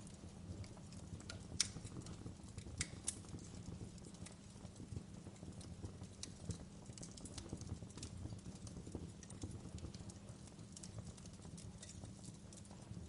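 Fireplace crackling: a faint, irregular scatter of sharp pops and snaps over a steady low hum of burning, with one louder pop about one and a half seconds in.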